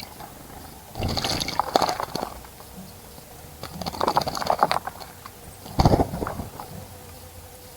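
A bird bathing in a shallow bird bath, splashing the water in three bouts of about a second each: about a second in, at four seconds, and at six seconds. The last bout opens with a low thump.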